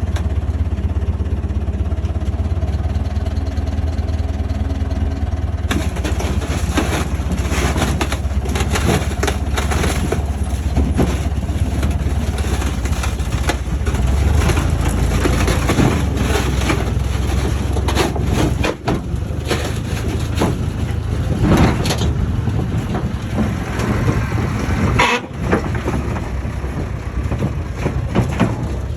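Crawler bulldozer's diesel engine running steadily under load. From about six seconds in, irregular clanking and crunching of tracks and earth join in.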